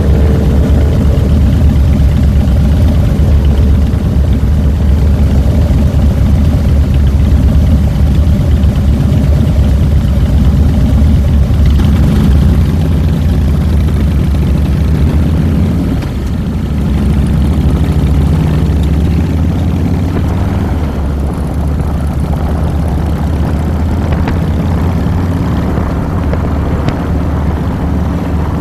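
2007 Harley-Davidson Fat Boy's Twin Cam 96 V-twin engine running under way, heard close up from the handlebars. About halfway through it eases off and runs a little quieter.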